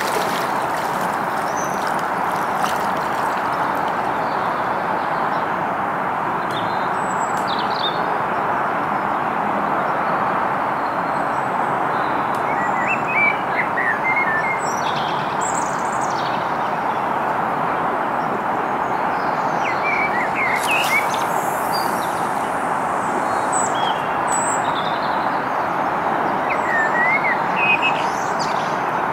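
Small birds chirping now and then over a steady rushing background noise.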